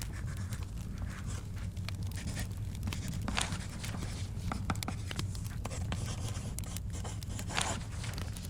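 Book pages turning, with two louder page swishes about three and a half seconds in and near the end, over a wood fire in a fireplace crackling with scattered sharp pops above a steady low rumble.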